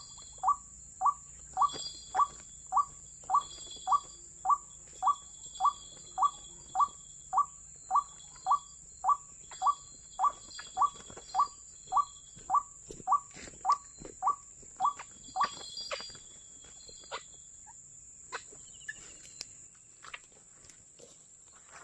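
White-breasted waterhen's 'ruak' call, a short note repeated very evenly about twice a second, stopping about 16 seconds in. After that come a few scattered clicks, over a steady high-pitched whine.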